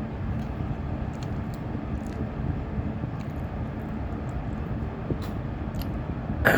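Electric fan running steadily, a constant rushing noise with a low hum. A few faint clicks sound through it, and a short louder knock comes near the end.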